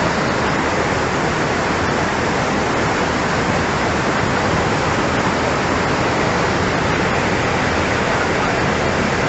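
Fast-flowing floodwater rushing steadily, a continuous even roar of water.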